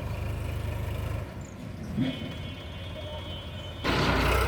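Sonalika tractor's diesel engine running with a steady low hum. About two seconds in there is a knock, then a high steady tone for almost two seconds, and near the end the engine sound gets louder with a rushing noise.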